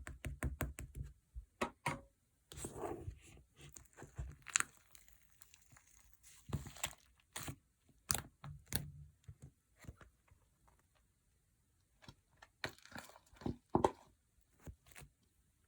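Slime being handled by hand: irregular sticky clicks and crackles as it is poked, pressed and pulled, with a quiet pause about ten seconds in.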